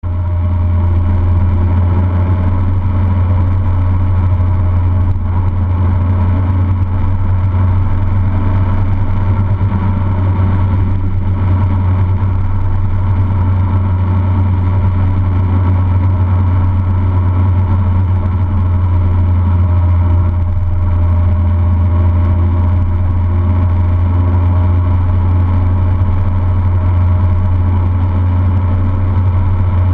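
Car engine running at a steady speed with road noise, a strong low drone that holds unchanged throughout.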